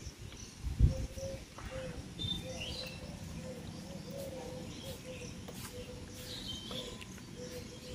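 Small birds chirping a few times over a low rumble, with a faint steady wavering tone underneath; a single thump just before one second in.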